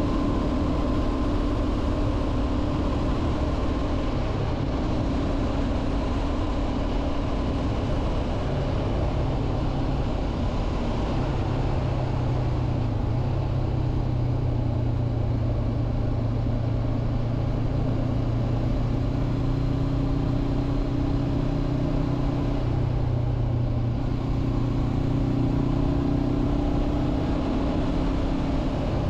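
2023 Honda CB500F's 471 cc parallel-twin engine running while the motorcycle cruises at a steady road speed, its pitch easing and rising a little a few times with the throttle, over a constant rush of wind and road noise.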